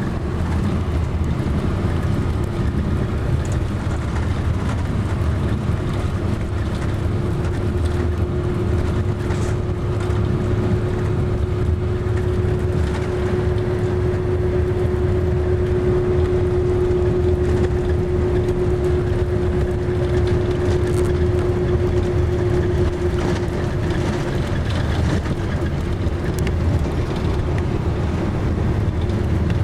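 Motor vehicle driving on a highway: steady engine and tyre noise, with a steady hum that swells in the middle and then fades back.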